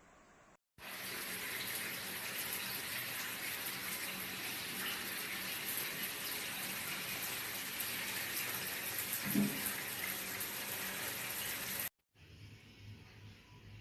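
Shower head of a Panasonic DH-3LS1 instant water heater spraying a steady stream of water. It begins abruptly a little under a second in and cuts off suddenly near the end.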